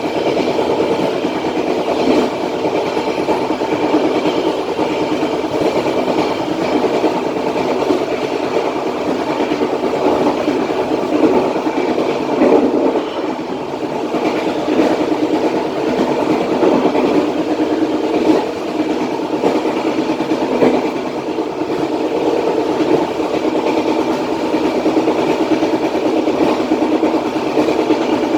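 Passenger train coaches rolling along the track: a steady rumble of steel wheels on rails, with a few brief louder knocks.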